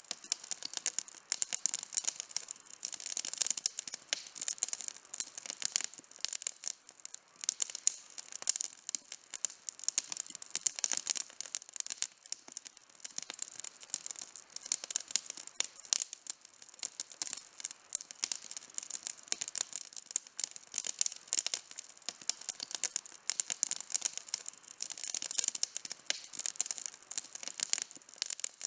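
Campfire burning with dense, continuous crackling: many sharp pops and snaps from the burning wood.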